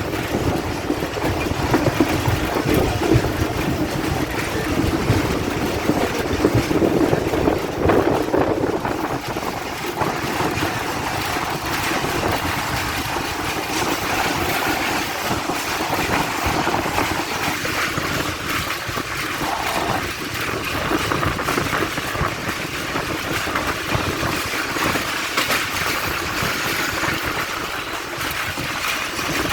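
Passenger train running along the track: a steady rumble with continuous rapid clatter of wheels on the rails.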